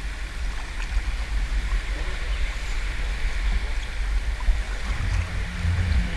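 Sea water lapping and splashing against a sea kayak, over a steady low rumble of wind on the microphone.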